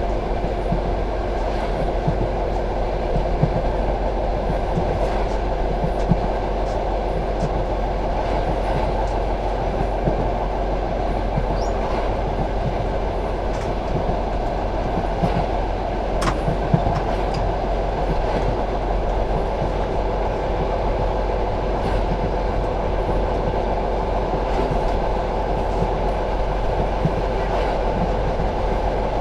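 Passenger train coach running steadily along the track, heard from inside the coach: a continuous rumble of wheels on rail, with scattered clicks from the wheels going over rail joints and one sharp click about sixteen seconds in.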